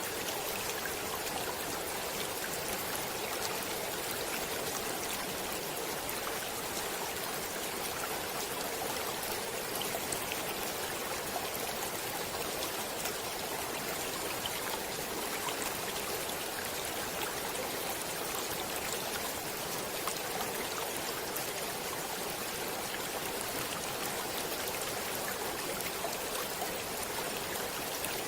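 Stream water flowing and splashing steadily, with a constant rushing hiss and small droplet splashes.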